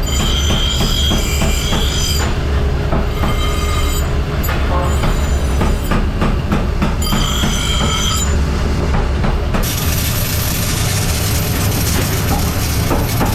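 Workshop machinery running with a steady low hum and a high-pitched metallic squeal that comes and goes in stretches of a second or two. About ten seconds in, the squeal gives way to a steady hiss.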